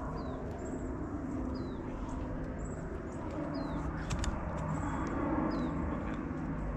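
A bird calling repeatedly outdoors: a short, high, downward-slurred note about every second and a half, over a steady low hum and background noise. Two sharp clicks about four seconds in.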